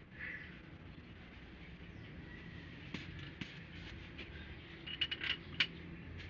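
Small metal tools or engine parts clinking and tapping: a few light clicks about halfway, then a quick cluster of sharper metallic clinks near the end.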